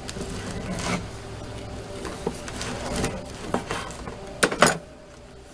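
A knife sawing back and forth through a loaf of freshly baked sourdough bread, a rasping stroke at a time, with two louder sharp knocks about four and a half seconds in.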